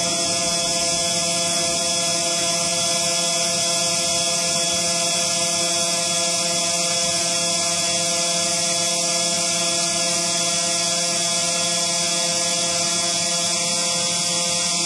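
CNC engraving machine running, its motors giving a steady whine of several held tones at an even level.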